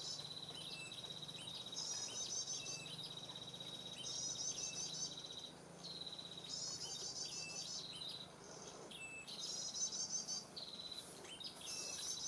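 A cricket trilling steadily on one high note. Over it, a short, fast, high twittering phrase repeats about every two and a half seconds.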